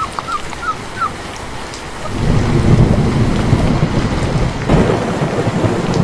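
Steady rain with a long, heavy rumble of thunder that swells about two seconds in. In the first second there are a few short high chirps.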